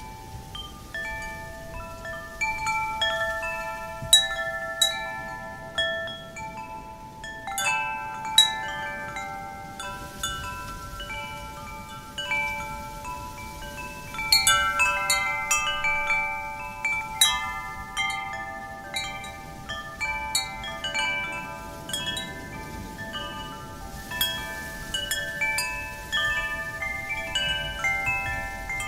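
Metal wind chimes ringing irregularly, several tubes struck at once in clusters and left to ring out, over a steady low rush of real wind.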